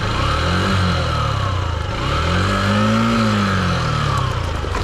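Honda XR150's single-cylinder engine revving up and dropping back twice, the second rev longer and higher, as the motorcycle is ridden up a steep sandy slope.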